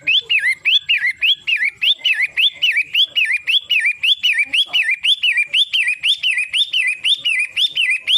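Long-tailed shrike (pentet matahari) calling: a loud, fast train of short chirping notes, each sweeping up then down, repeated very evenly about two and a half times a second.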